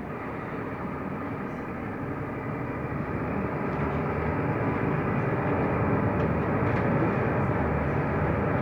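Mercedes-Benz Türk O345 Conecto LF city bus running: a steady rumble of engine and road noise that grows louder from about three seconds in.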